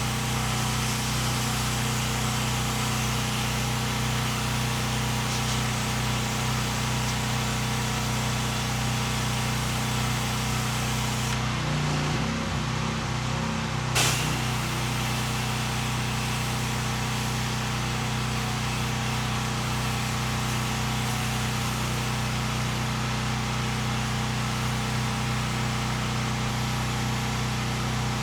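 Pressure washer running steadily while spraying, its engine and pump giving a constant tone under a hiss of water. Near the middle the spray hiss drops out for a couple of seconds and the engine note wavers, then spraying resumes with a sharp click.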